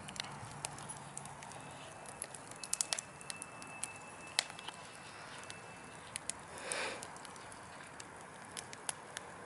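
Wood fire burning in a fireplace: irregular sharp crackles and pops over a steady low hiss. A faint thin whistle runs through the middle, and a brief whoosh comes about two-thirds of the way in.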